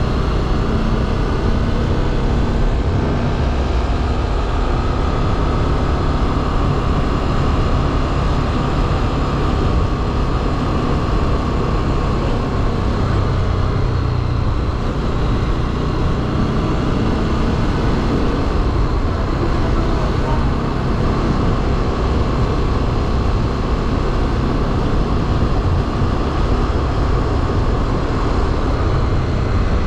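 Motorcycle riding along at road speed: a steady, loud low rumble with faint engine tones that drift slowly up and down.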